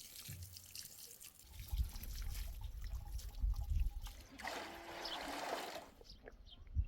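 Liquid trickling and pouring, with a low rumble underneath from about one and a half seconds in and a denser pouring sound for about a second and a half near the middle.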